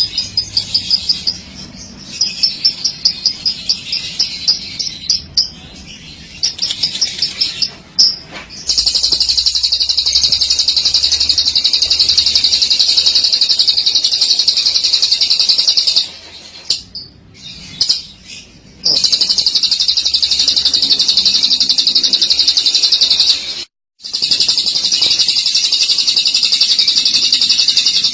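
Lovebird giving its 'ngekek' song: short runs of rapid high chirps, then from about nine seconds in long unbroken chattering trills lasting several seconds each, broken twice by short pauses.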